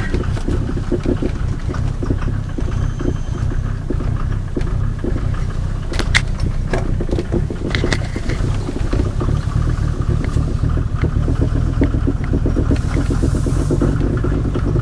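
Mercedes 300D diesel engine running steadily with a rhythmic clatter as the car backs up. A few sharp clicks come about six to eight seconds in.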